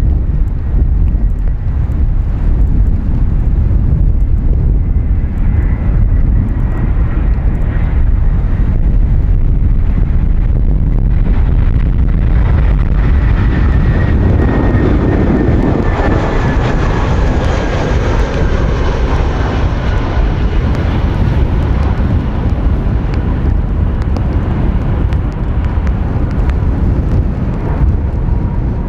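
Airbus A320-214 jet with CFM56 engines passing on its landing run-in, its engine whine slowly falling in pitch as it goes by and loudest about halfway through, under heavy wind rumble on the microphone.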